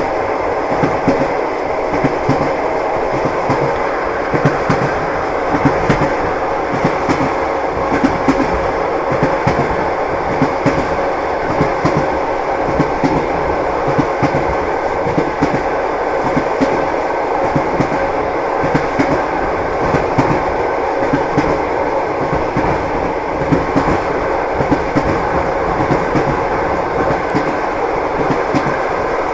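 Train wheels clacking over rail joints with the steady rumble of a moving railway carriage, heard from inside the carriage.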